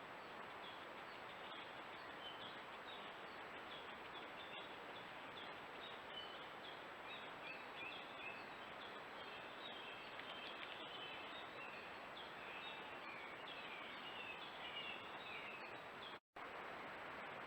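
Faint bird song, a quick series of short chirping notes that grows busier partway through, over the steady hiss of a trail camera's microphone. The sound cuts out for a moment near the end.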